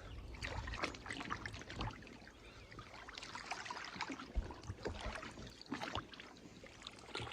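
River water sloshing and splashing irregularly around the legs of someone wading through deep water.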